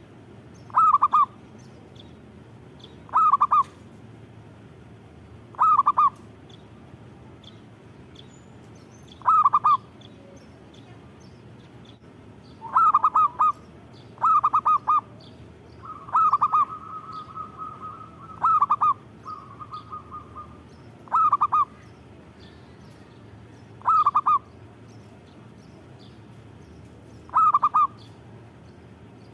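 Zebra dove (perkutut) cooing: a short phrase of quick, clipped notes, repeated about eleven times at intervals of two to three seconds. In the middle a longer steady note is drawn out twice between the phrases.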